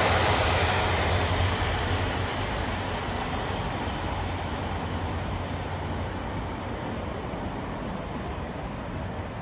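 A train running past on the line, its rumble fading steadily as it draws away.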